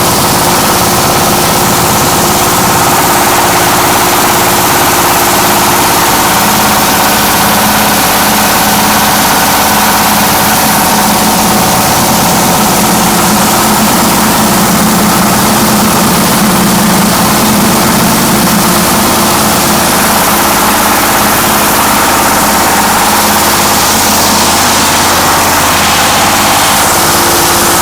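Hammer mill driven by a 24 HP diesel engine, running steadily: a constant engine hum under a loud, even hiss.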